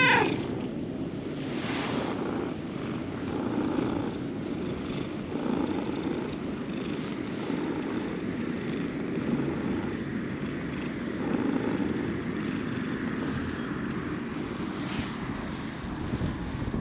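A cat purring steadily, close up, in slow swells about every two seconds.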